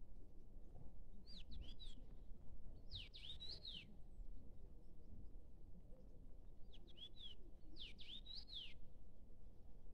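A songbird singing short phrases of quick rising and falling whistled notes, four phrases in two pairs about five seconds apart, over a low steady rumble of background noise.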